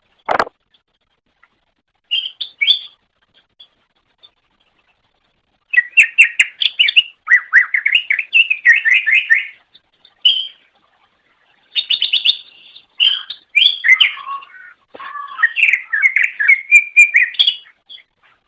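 Greater green leafbird (cucak ijo) singing in bursts of rapid, varied chirps and whistled notes, the song densest and most continuous in the second half. A single sharp click comes right at the start.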